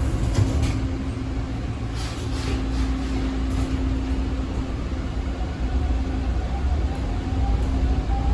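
A TTC Bombardier T1 subway train running: a steady low rumble with a constant hum. There are a few clacks in the first few seconds, and from about six seconds in a motor whine rises slowly in pitch as the train gathers speed.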